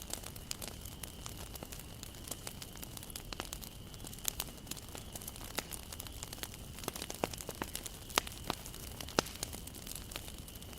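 Wood bonfire burning: irregular sharp crackles and pops over a low hiss of flames, with a few louder pops in the second half.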